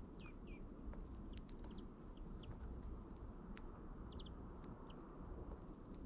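Small songbirds giving brief high chirps and call notes, with two short downward-sliding notes near the start, and scattered faint clicks, over a low steady outdoor rumble.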